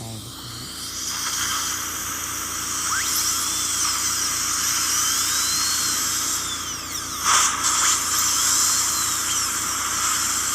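Dental high-speed drill running steadily with a whine that rises and falls as it cuts the tooth, and a brief louder burst of hiss about seven seconds in.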